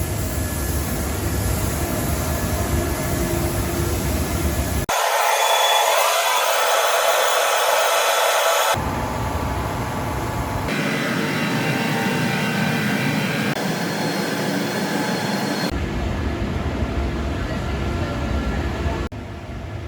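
Steady rushing air from a spray booth's extraction fans and a paint spray gun in use. The sound changes abruptly several times, at about 5, 9, 11, 16 and 19 seconds in, with the hiss loudest between about 5 and 9 seconds in.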